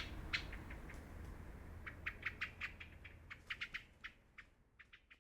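Small birds chirping in quick short notes over a low rumble. The chirps thin out and the sound fades almost to nothing near the end.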